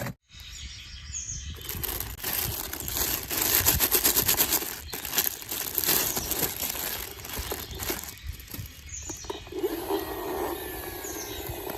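Irregular clicking and rattling with crackling noise, densest in the middle; no music.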